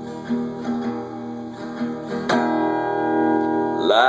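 Acoustic guitar playing an instrumental passage between sung lines: single picked notes, then a strummed chord a little past two seconds in that rings on.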